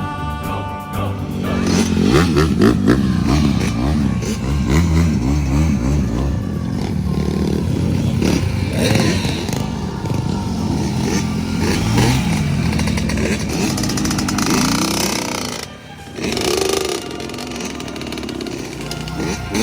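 Dirt bike engines running and revving as the bikes are ridden, their pitch rising and falling with the throttle, with more than one bike heard at once. The sound dips briefly about sixteen seconds in.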